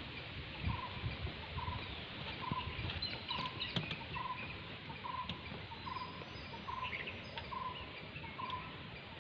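A bird calling one short note over and over, evenly spaced a little under a second apart, with other birds chirping faintly higher up and a low irregular rumble underneath.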